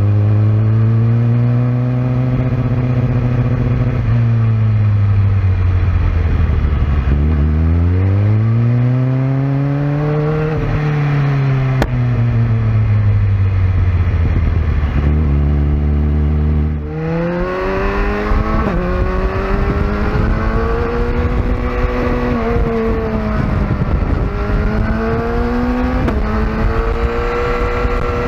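Sportbike engine at speed on a racetrack, its revs rising and falling in long sweeps as the rider accelerates, shifts and slows. A little past halfway the sound changes abruptly to a different, higher engine note with more rushing noise behind it.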